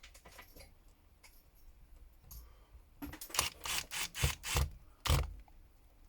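Small repair tools and smartphone parts being handled on a work surface: faint clicks at first, then a quick run of about six scraping knocks between about three and five seconds in.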